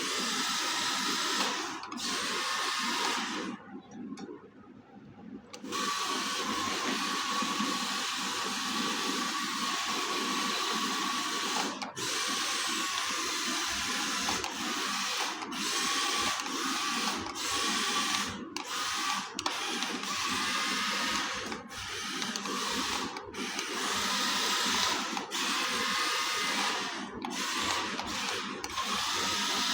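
Small electric motor and gears of a radio-controlled toy tractor whining as it drives, cutting out briefly many times. About four seconds in it goes quiet for about two seconds.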